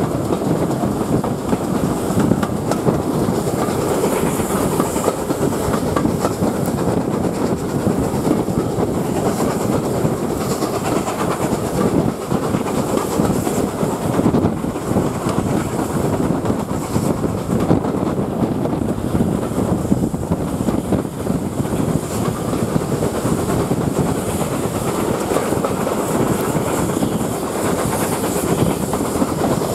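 Steam-hauled passenger train running, heard from an open coach window: a steady rumble of wheels on the track with clickety-clack over the rail joints.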